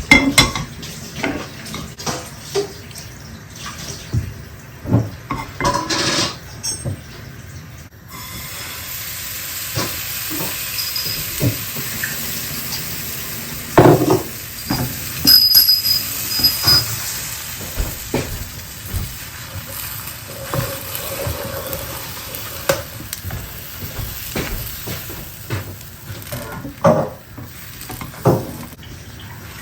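Cooking in a kitchen: utensils and dishes knocking and clinking again and again, with a steady hiss from about eight seconds in.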